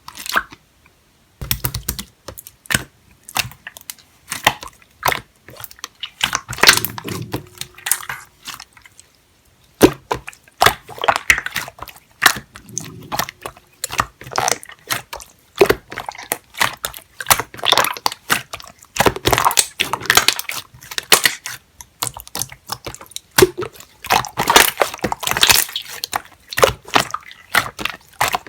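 Clear slime being squished, pressed and stretched by hand, giving a steady stream of wet clicks, pops and crackles as air pockets burst. There is a short pause partway through.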